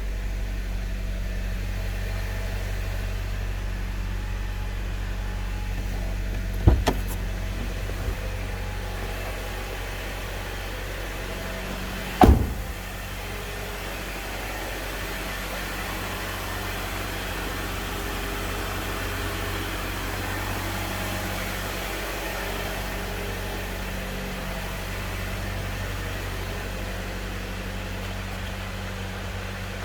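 Nissan Serena FC26's 2.0-litre four-cylinder engine idling with a steady low hum. Two sharp knocks come about 7 seconds and about 12 seconds in.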